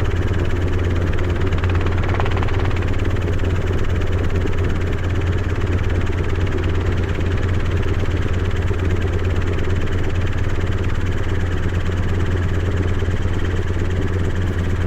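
Helicopter in flight heard from inside the cabin: a steady, loud drone of engine and rotor, with a strong low hum and a hiss of airflow, unchanged throughout.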